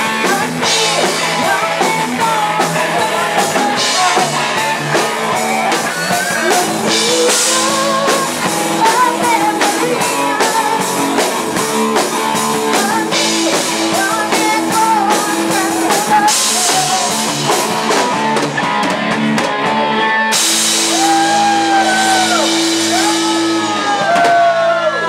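A live rock band playing a song with amplified singing, electric guitar and drum kit. About twenty seconds in, the beat stops and a held chord rings on with sliding notes over it, as the song winds to its close.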